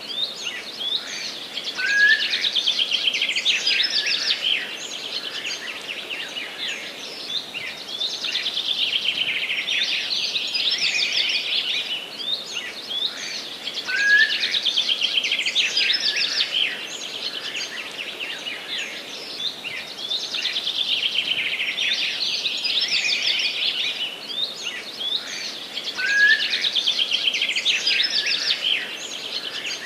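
Songbirds singing: fast, dense chirping trills, with a short rising note that comes back about every twelve seconds as the same stretch of song repeats.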